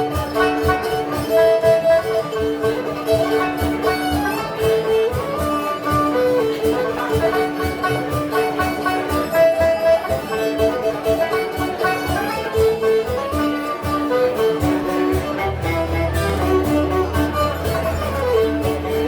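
Live folk band playing an instrumental tune: 12-string guitar and banjo strumming a fast, even rhythm under a melody of held notes.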